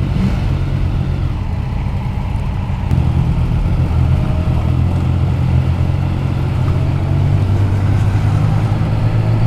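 Motorcycle engine running steadily on the road, its note growing a little louder about three seconds in.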